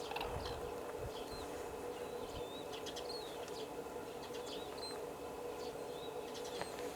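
Small birds chirping, with short high notes scattered through, over a steady low hum and background hiss.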